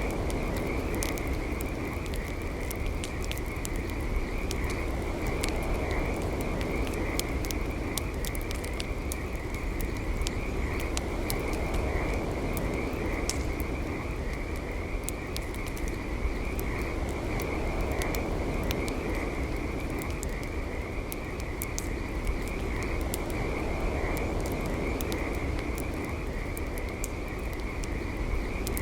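Campfire crackling, with frequent sharp pops scattered irregularly, under a steady high-pitched chorus of calling frogs that pulses on without a break.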